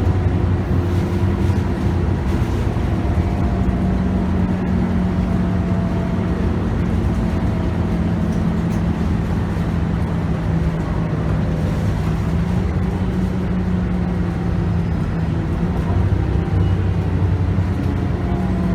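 Scania K280UB bus heard from on board while under way: its 9.3-litre five-cylinder diesel and ZF Ecomat automatic driveline run with a steady hum over road noise. The pitch slowly falls through most of the stretch, then rises again near the end.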